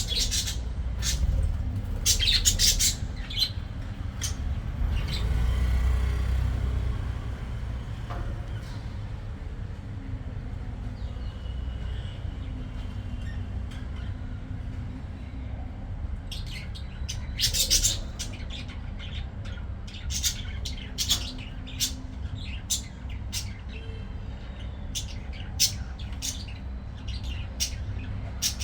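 Pet budgerigars chirping and squawking in short bursts, in two busy spells near the start and through the second half, over a steady low background rumble.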